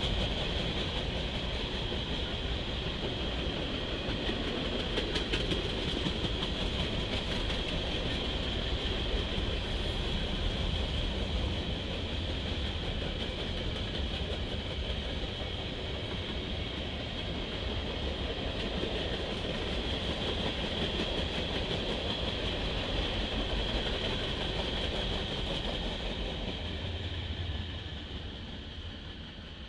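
Norfolk Southern train's cars rolling past at speed, a steady rumble of wheels on rail with a constant high ringing note. It fades away over the last few seconds.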